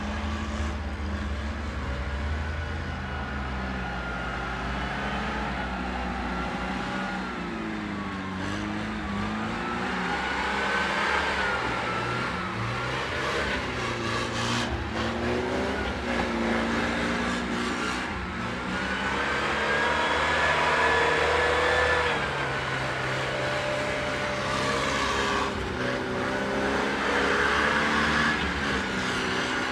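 UAZ off-road vehicle engines revving up and down again and again as the vehicles spin their wheels through slush and mud.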